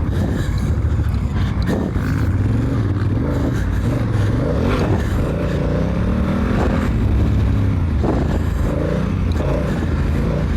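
Honda Africa Twin's parallel-twin engine revving up and easing off over and over as the bike is ridden hard around a motocross track, its DCT gearbox shifting on its own.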